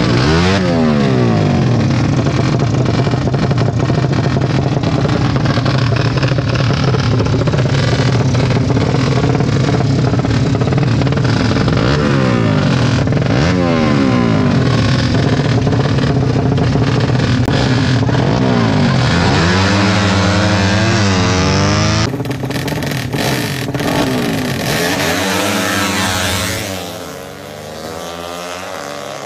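Motorcycle engines revving hard, their pitch rising and falling over and over with the throttle and gear changes. About two-thirds of the way in the sound drops noticeably quieter, with the engine notes still rising and falling.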